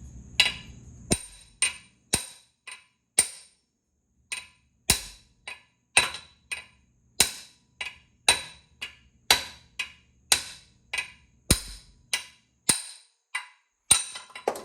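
A hammer strikes metal about two dozen times, roughly twice a second with one short pause, each blow ringing briefly. The blows are driving a seized part out of an old Lowell ratchet head.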